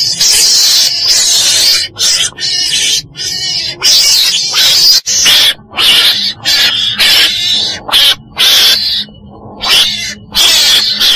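Recorded calls of the chồn đèn, a small carnivore the uploader names Mustela, of the kind played as a trapping lure: a string of harsh, high-pitched screeches, each lasting under a second, with short breaks between them.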